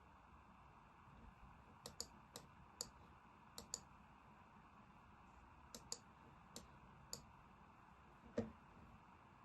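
Computer mouse clicking about ten times, several as quick double-clicks, followed by a duller knock near the end.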